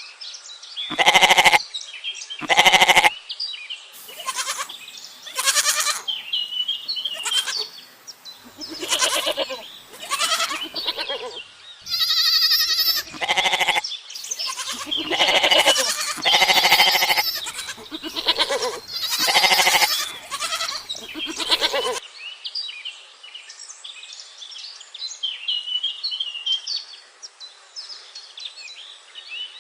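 Bleating livestock, calling again and again for about twenty seconds. After that only faint chirping remains.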